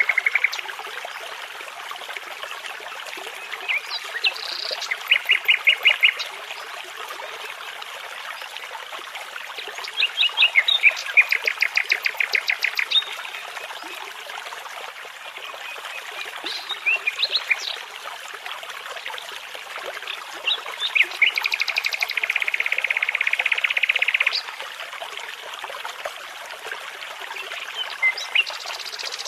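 Nightingale song over a steady babbling brook: a phrase of rapid repeated notes and trills every few seconds, one of them a long, fast trill lasting about three seconds.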